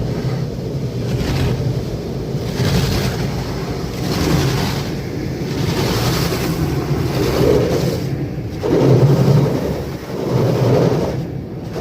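Automatic car wash working over the car, heard from inside the cabin: a low rumble with spraying hiss that swells and fades in waves as the equipment passes over.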